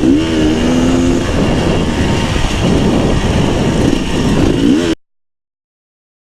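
Beta 300 RR two-stroke dirt bike engine running and revving on the trail, its pitch rising and falling with the throttle. The sound cuts off suddenly about five seconds in, leaving silence.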